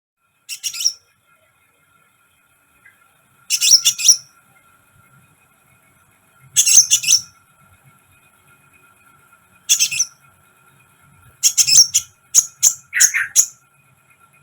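A sunbird singing: short bursts of rapid, high-pitched chittering notes, five phrases a few seconds apart, the last one longer and broken into several pieces.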